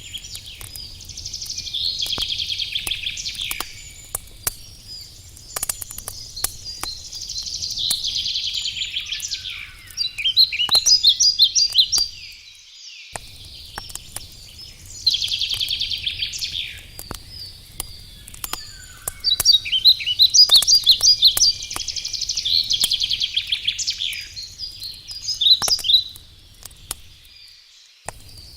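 Songbirds singing loud, high trilling phrases over the crackle and pops of a wood campfire, with a low steady rumble underneath. Everything cuts out for a moment about twelve seconds in.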